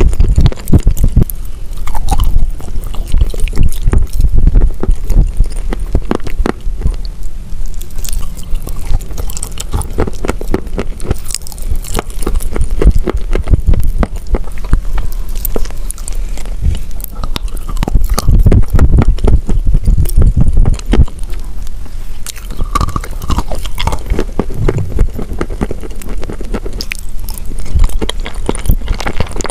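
Close-miked chewing and crunching of a mouthful of wet chalk paste with cookies: a dense run of wet mouth clicks, squelches and crisp crunches, with no pauses.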